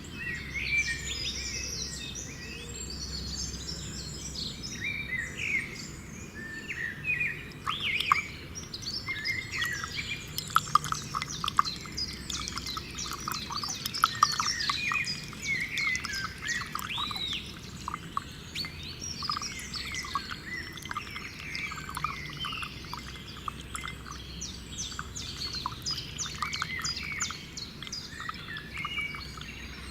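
Several birds chirping and calling at once, a dense run of short overlapping chirps and whistles, with a few sharper, louder calls in the middle stretch.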